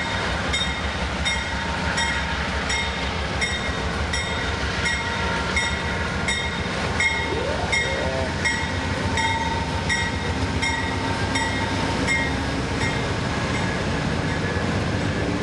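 Amtrak passenger train rolling out under steady rumble, with a bell ringing evenly, about three strikes a second. A brief squealing glide sounds about halfway through.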